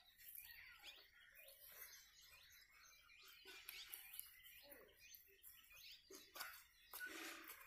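Faint birds chirping in the background, many short high calls throughout, with a brief rustle near the end.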